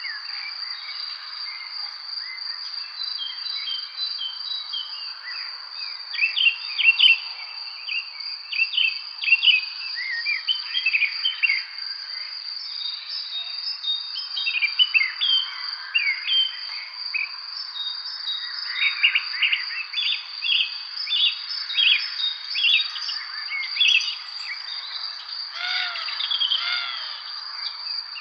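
Many birds chirping and calling in quick short notes over a steady high-pitched insect trill, such as crickets.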